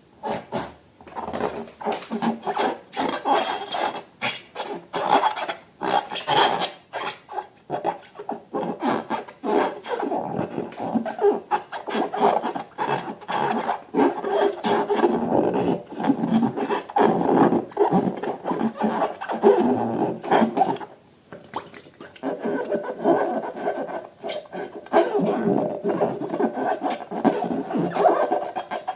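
Irregular rubbing and scraping strokes of hands working balloons and slime, going on almost without a break apart from a short pause about two thirds of the way in.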